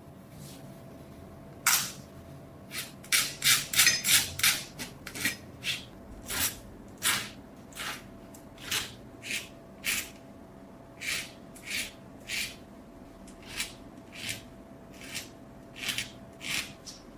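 A hand tool scraping across the rusted knife's steel in short, sharp strokes: a quick run of them about three seconds in, then roughly one stroke a second.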